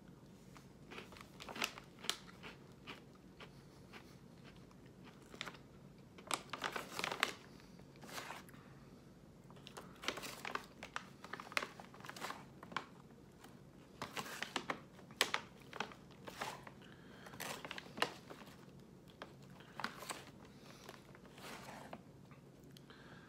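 Close-up chewing and crunching of chocolate-covered s'mores snack mix pieces, in irregular clusters of crisp crunches.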